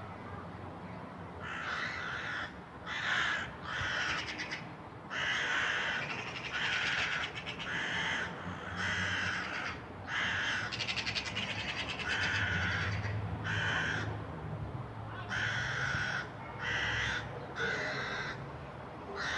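Crows cawing over and over, harsh calls coming one after another with short gaps: crows mobbing a cat.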